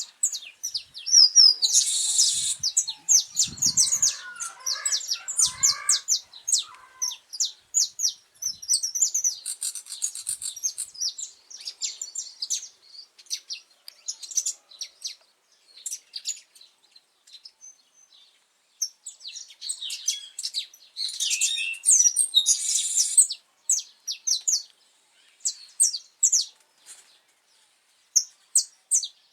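Saffron finch singing: phrases of rapid, high chirped notes, with short pauses between them and a few denser, louder bursts.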